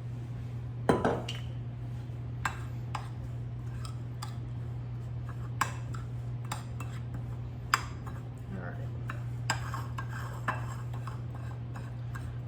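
A spoon stirring a crumbly streusel topping in a mixing bowl, with scattered sharp clinks of the utensil against the bowl, the loudest about a second in. A steady low hum runs underneath.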